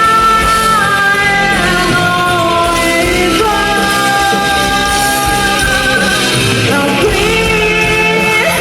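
Live rock band playing, with a singer holding long notes that step up and down over the band.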